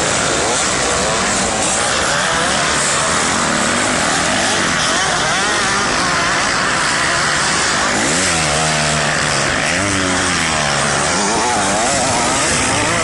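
Motocross dirt bike engines revving, their pitch climbing and dropping again and again with throttle and gear changes, most clearly in the second half.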